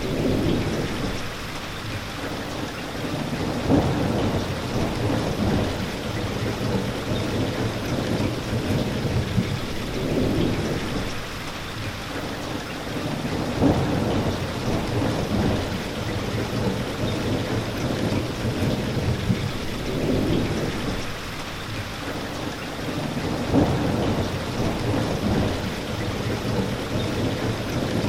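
Steady rain falling, with low rumbles of thunder that swell and fade every few seconds. A brief sharper hit comes roughly every ten seconds.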